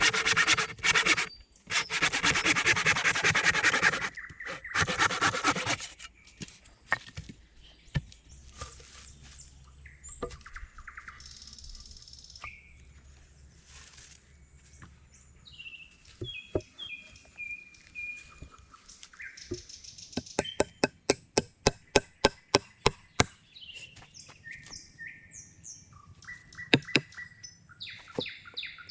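Three long scraping strokes of a hand tool on wood, then a quiet stretch with songbirds chirping, then a quick series of sharp wooden knocks near the end, typical of chopping or hewing wood.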